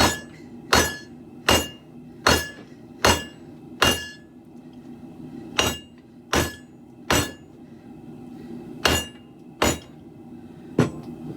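Hammer blows on hot steel on an anvil as a sword blade is drawn out: about a dozen ringing strikes a little under a second apart, in runs with short pauses, over a steady low rumble.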